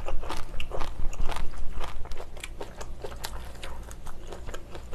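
Close-miked chewing of a mouthful of food, a quick run of wet mouth clicks several times a second, loudest in the first couple of seconds.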